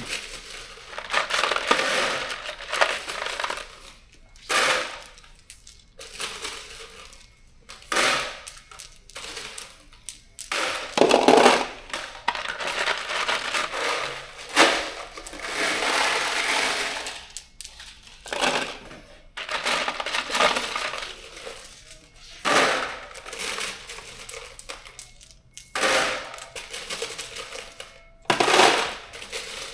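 Loose steel bolts and nuts clinking and rattling as they are handled and dropped in together. The sound comes in repeated bursts of a second or two with short pauses between them.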